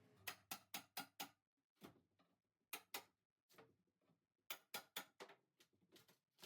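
Faint, sharp taps in quick irregular runs of four or five, with short pauses between the runs.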